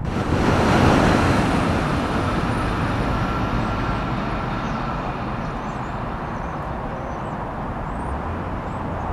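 Southeastern Class 395 'Javelin' high-speed electric train running past at speed, a rushing rumble that is loudest about a second in and then fades slowly as it draws away. A faint steady whine sounds under it for the first few seconds.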